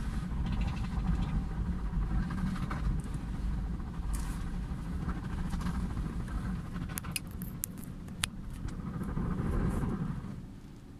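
Automatic car wash machine running, a steady low rumble that sets in at the start and dies away near the end, with a few sharp clicks about seven to eight seconds in.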